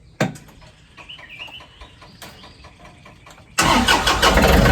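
Tractor engine being started: a sharp click about a quarter second in, faint ticking, then the engine suddenly catches near the end and runs loud and steady at idle.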